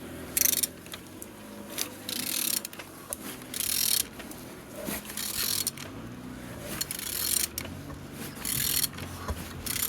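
HD06BRF engine being turned over by hand, with a mechanical noise of short strokes recurring about every second or so. The engine turns freely and is not seized.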